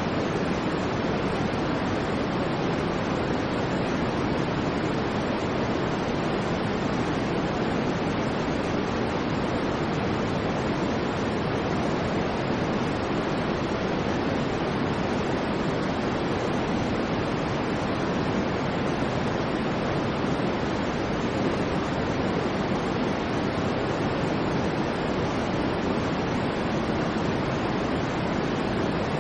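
Continuous generated white noise, an even hiss that never changes, fuller in the low and middle range than in the highs.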